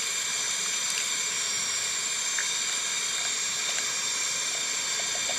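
Portable gas camp stove's burner running, a steady hiss while it heats a pot of water.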